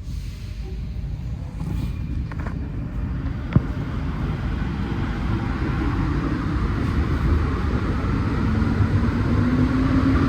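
Alstom NS-16 metro train heard from inside the car as it pulls away from a station: a low running rumble grows steadily louder, and from about halfway through a traction-motor whine rises in pitch as the train accelerates. A single sharp click comes about a third of the way in.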